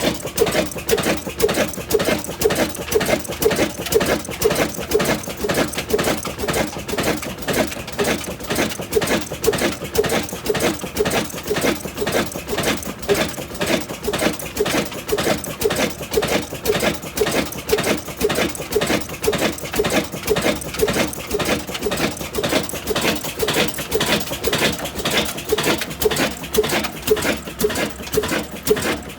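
75-year-old engine running steadily, a fast, even, repeating beat.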